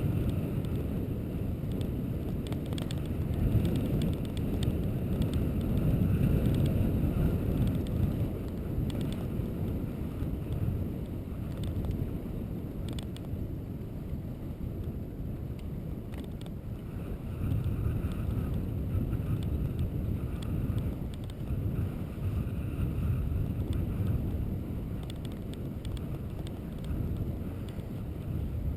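Low rumbling wind noise buffeting the microphone, swelling and easing, with a faint whine coming and going.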